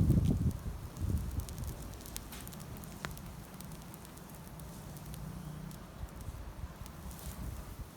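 Wood campfire crackling, with scattered sharp pops and snaps over a low rumble. A louder low rumble sits in the first second.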